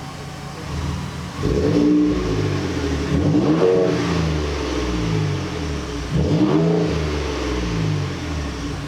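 Stock-exhaust 2019 Ford Raptor's twin-turbo V6 idling, then revved twice, each rev rising in pitch and falling back to idle. It is fairly quiet and smooth on the factory exhaust.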